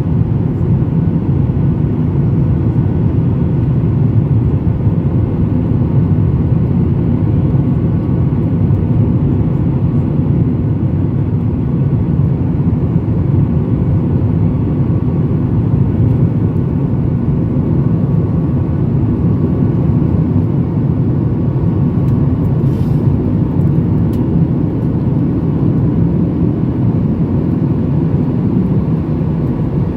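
Jet airliner's engines running steadily during takeoff and climb, heard from inside the passenger cabin as a deep, even noise with a few faint steady tones.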